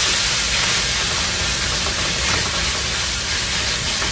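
Ground chili spice paste (sambal) sizzling steadily in hot oil in a steel wok as it is stirred with a metal spatula.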